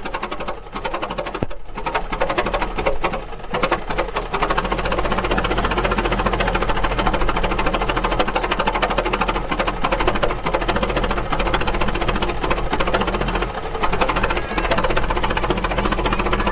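Antique engine running at a fast, even mechanical clatter, getting somewhat louder a few seconds in.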